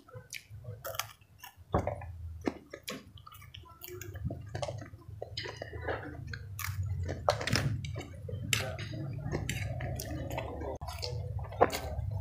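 A person chewing raw green bird's eye chilies and fried instant noodles, with many short mouth clicks and smacks. A low steady hum sits underneath from about two seconds in.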